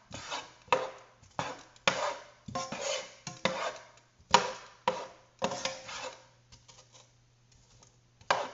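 A spoon stirring and scraping chopped onions around a pot of melted butter, about two strokes a second, fading to a few faint knocks for the last couple of seconds before one louder stroke near the end.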